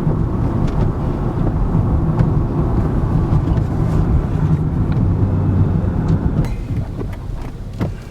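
Car driving, heard from inside the cabin: a steady rumble of road and engine noise that eases off about six and a half seconds in, with a few light clicks near the end.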